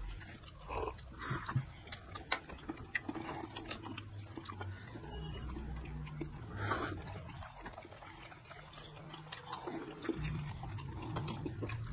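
People chewing and eating steamed momo dumplings, with soft wet mouth sounds and scattered light clicks of chopsticks against steel plates and sauce bowls.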